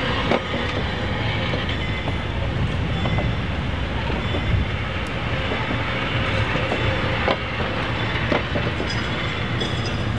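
A train running along the track: a steady rumble with a few irregular clicks and knocks from the wheels on the rails.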